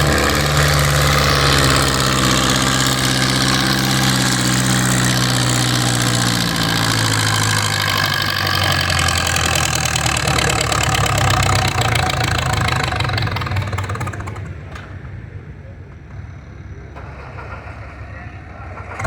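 Antique pulling tractor's engine running hard under load, its pitch slowly falling. About two-thirds of the way through it dies down to a quieter low rumble.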